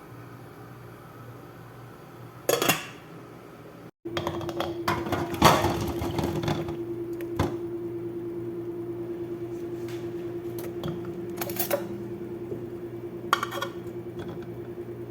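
Pots, pans and utensils clattering and clinking. About four seconds in, a steady pulsing hum from a kitchen appliance starts and runs on under further knocks and clinks.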